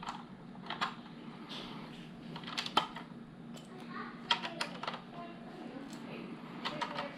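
LEGO plastic bricks being handled and pressed together: scattered sharp clicks and small clatters, some in quick clusters of two or three.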